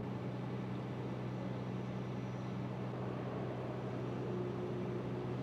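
Heavy vehicle engine idling steadily with a low, even hum.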